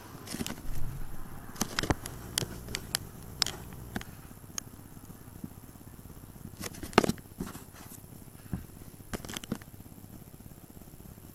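Handling noise: scattered sharp clicks and taps, with a few low thumps in the first second or two, then a single louder click about seven seconds in.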